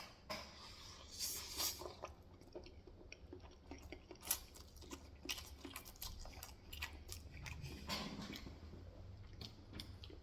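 Wet chewing and lip-smacking of a mouthful of pancit canton instant stir-fried noodles with soft-boiled egg, a string of small clicks and smacks with a few louder ones.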